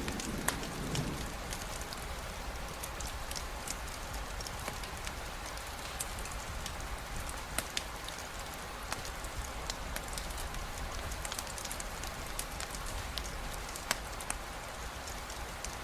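Steady rainfall with scattered sharp crackles and pops from a campfire. A low rumble dies away in the first second.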